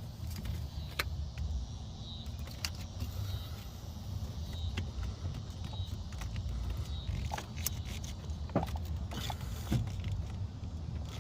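Scattered light clicks and knocks of a heater hose and quick-lock connector being handled and pushed together, over a steady low rumble.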